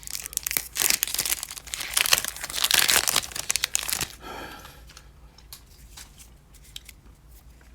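Foil wrapper of a Pokémon booster pack being torn open and crinkled for about four seconds. After that come only faint light ticks, as the cards are handled.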